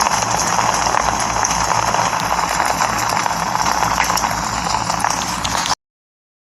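Rain falling steadily as a dense patter of drops, which cuts off suddenly near the end.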